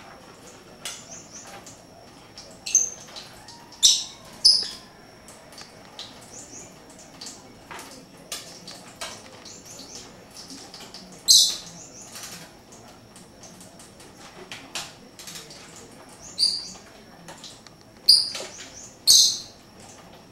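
Pet birds making short, high chirps, seven or so loud ones scattered through, over a steady patter of soft taps and rustles.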